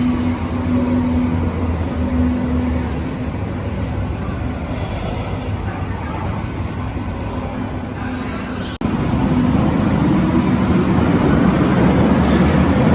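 Berlin U-Bahn large-profile train running: a steady rumble with a low electric-motor hum. About nine seconds in it cuts abruptly to a louder, rougher rumble.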